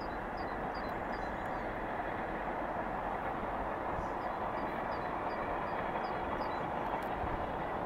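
Steady rushing rumble of a train running along the line. Two runs of short high chirps, a few a second, sound above it, one near the start and one from about four to six and a half seconds in.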